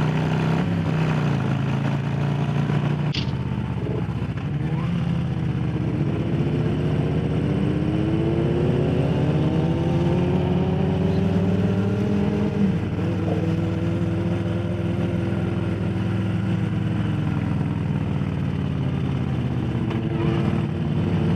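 Harley-Davidson Low Rider S's Milwaukee-Eight V-twin running while riding, its engine note rising and falling with the throttle.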